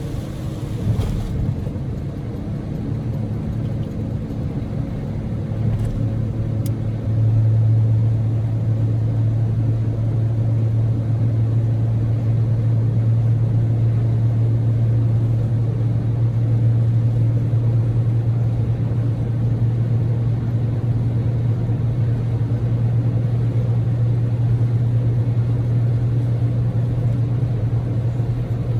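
Steady engine and road drone inside the cabin of a moving Daihatsu Move L150S, a kei car with a small three-cylinder EF-VE engine. A low hum that grows stronger about seven seconds in and then holds even.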